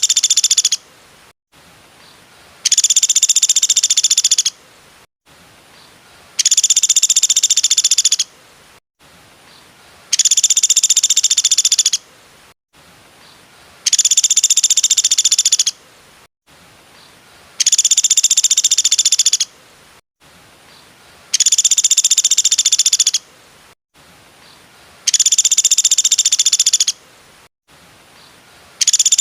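A small bird's rapid, high-pitched trill, the same identical bout repeated about every four seconds, eight times, as a looped tutor recording for training songbirds.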